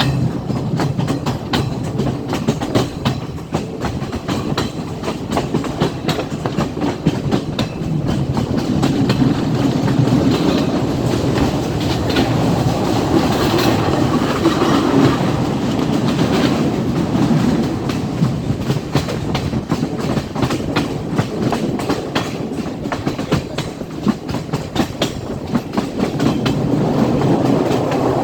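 A Class S14 diesel multiple unit train running along the line, its wheels clicking steadily over the rail joints under a continuous rumble.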